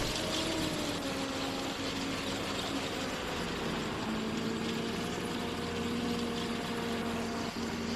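Tractor engine running steadily; its note sags a little over the first few seconds, then holds level.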